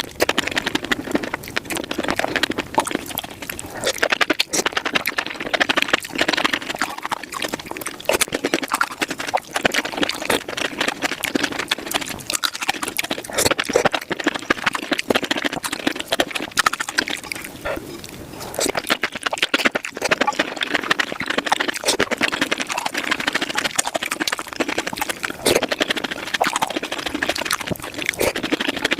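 Close-miked eating sounds of spicy mushrooms, chewing and slurping played at five times normal speed, so the bites run together into a rapid, unbroken stream of wet clicks and smacks.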